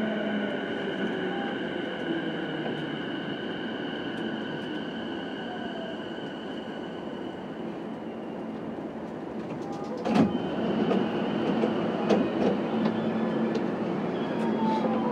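JR East E233-5000 series electric train running, heard from inside the car in a tunnel, with a steady rumble and a motor whine that fades away. About ten seconds in a loud clack from the wheels, then louder running with scattered wheel clicks and brief squeals.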